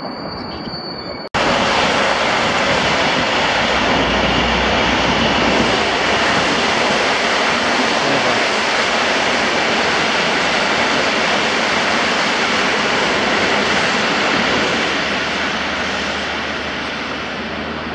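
Steady rushing rumble of a locomotive-hauled PKP Intercity passenger train rolling past on the tracks. It starts abruptly about a second in and eases a little near the end.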